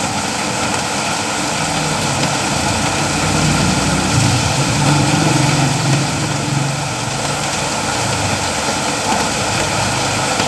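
Steady rain hiss, with a low engine hum swelling in the middle and easing off again.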